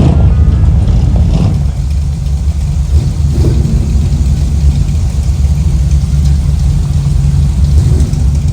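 Classic car engines rumbling at low speed, a deep steady exhaust note with some light revving.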